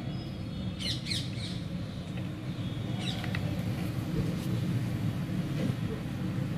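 Steady low background rumble with a few short bird calls, a cluster about a second in and another around three seconds.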